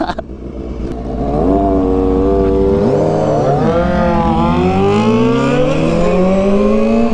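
Honda Hornet 250 and Kawasaki Balius inline-four motorcycle engines pulling away and accelerating. The engine pitch climbs steadily as they gain speed and drops at each gear change, about three seconds in and again near the end.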